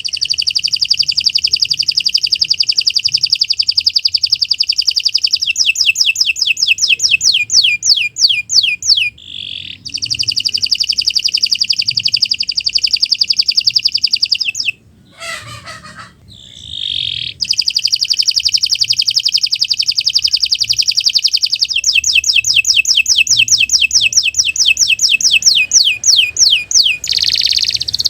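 Domestic canary singing long, very rapid rolling trills, broken by runs of slower, distinct downward-sweeping notes, with short pauses about nine seconds in and around fifteen to seventeen seconds in.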